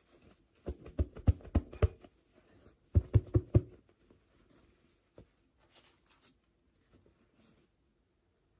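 Small miniature toy pieces and their packaging being handled: a quick run of about five sharp clicks, a second run of four about three seconds in, then a single click a little past halfway, with faint rustling between.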